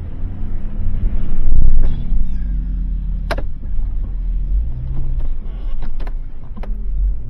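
A motor vehicle's engine running close by, swelling louder about one and a half seconds in, as if revved, with its pitch shifting up and down. A single sharp click or knock is heard a little past the middle.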